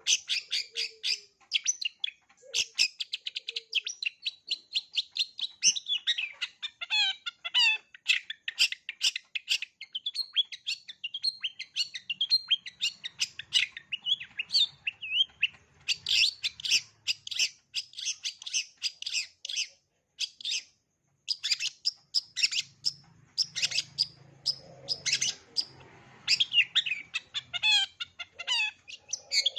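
Long-tailed shrike (cendet) singing a fast, varied chattering song packed with mimicked phrases (isian): many short high chirps, trills and sliding notes in quick succession, with a brief pause about two-thirds of the way through.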